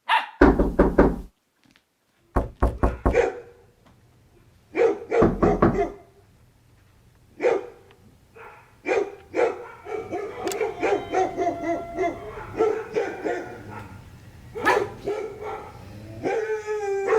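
Dog barking in quick volleys of several sharp barks, then many shorter barks from about halfway through.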